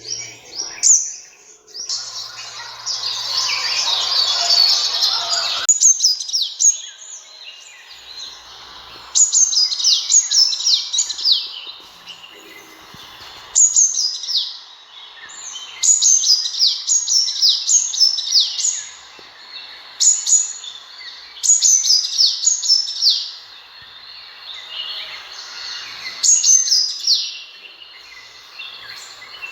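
Sunbird song: quick phrases of high, thin, descending notes, repeated every couple of seconds. About two seconds in, a rushing noise covers the calls for about four seconds.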